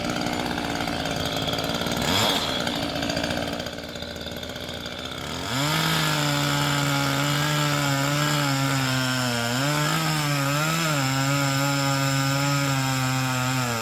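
Dewalt 60V top-handle battery chainsaw cutting through a pine trunk. It runs with an electric hum, gets louder about five and a half seconds in, and its pitch dips a few times as the chain bogs in the cut.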